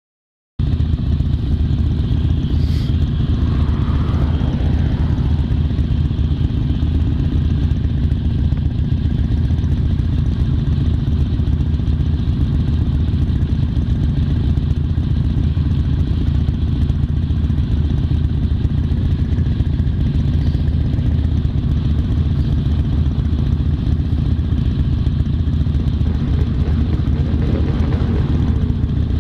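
Motorcycle engine running steadily during a ride, with a constant rush of noise over it; it cuts in abruptly about half a second in.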